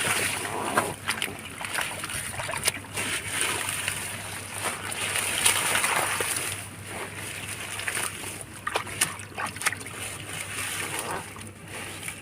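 Water splashing and sloshing as hands work through shallow water feeling for fish, in uneven swells with sharp slaps.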